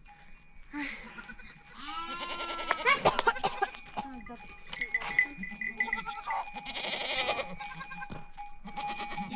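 Goats and sheep bleating, many calls one after another and overlapping, the loudest about two to three seconds in.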